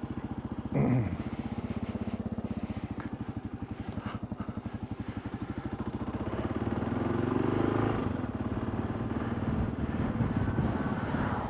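Motorcycle engine running with an even, pulsing beat as the bike is ridden off. Revs climb and it gets louder about seven seconds in, then it eases back.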